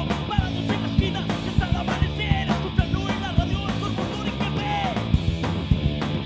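Live punk rock band playing: a steady drum kit beat under distorted electric guitars and bass.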